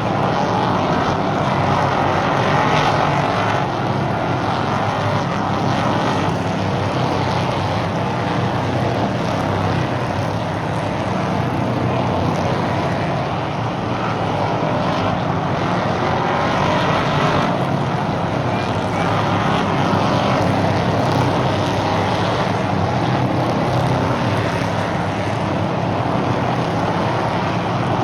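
Stock cars racing on a short oval track, their engines running at speed, the sound swelling and easing as the cars come round.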